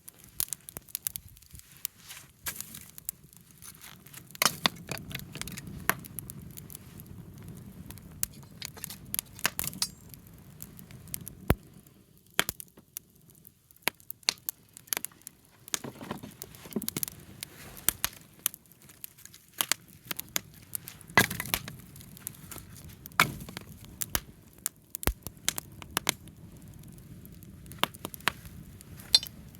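Wood bonfire crackling, with sharp pops and snaps at irregular intervals over the low rush of the flames.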